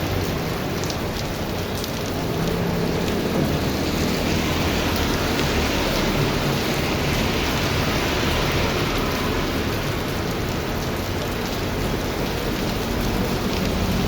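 Heavy rain pouring steadily, a dense even hiss with a steady low rumble underneath.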